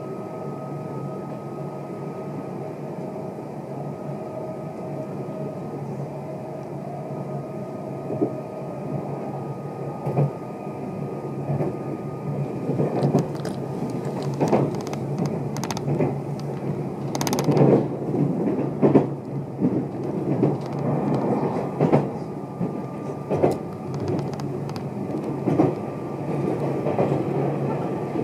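Meitetsu 2000-series μSKY electric train running, heard from inside the car: a steady rumble with a faint steady whine. From about eight seconds in, irregular clicks and knocks of the wheels over the track join it and grow louder and more frequent.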